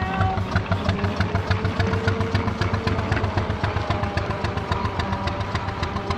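An engine idling with a steady, even exhaust beat of about six or seven pulses a second.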